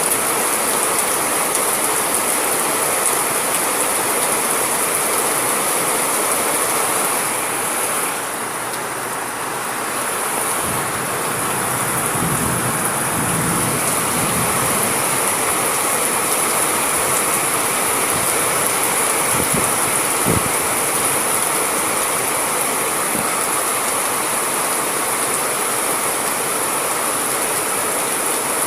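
Steady, heavy rain falling, a loud even hiss. A low rumble comes a little before the middle, and a short low thump about two-thirds of the way through.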